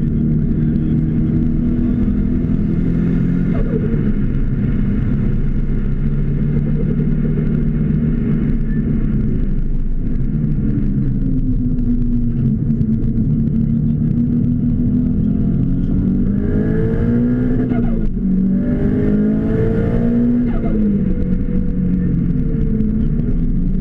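Car engine heard from inside the cabin, driven hard around a circuit, its pitch holding steady, then falling and rising again; about two-thirds of the way through it swings quickly up and down several times as the car brakes, shifts and accelerates.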